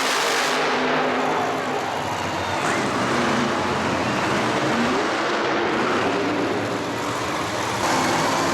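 Loud motorsport engines running and revving at a Monster Jam show, with shifting engine pitch over a dense, steady wash of noise.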